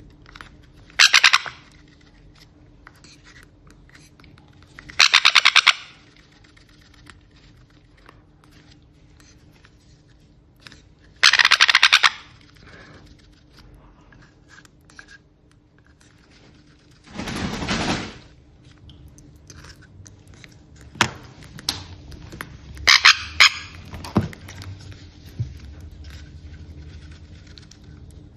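Sun conure chick giving short, loud bursts of rapidly pulsed begging squawks, typical of a hand-fed baby parrot taking formula. Four bursts come several seconds apart, with a lower, rougher burst between the third and fourth and scattered clicks near the end.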